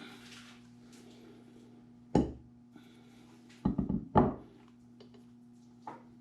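A few sharp knocks and clunks, as of parts and tools being handled: a single knock about two seconds in, a rattling cluster of knocks a little later, and a faint one near the end. A steady low hum runs underneath.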